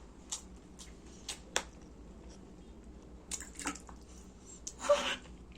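Spoon and slippery white laphing being handled while eating: scattered small sharp clicks and soft wet squishes, with a louder wet squish about five seconds in.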